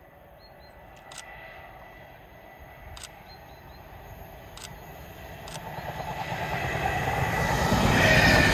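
A train approaching, its running noise growing steadily louder over the last few seconds. Before that, a few sharp, separate clicks.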